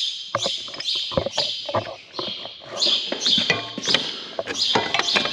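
A small bird chirping over and over, about two short chirps a second, over sharp clicks and knocks of metal parts and tools as a tractor's belt tensioner is worked back into place. A short metallic ring comes about three and a half seconds in.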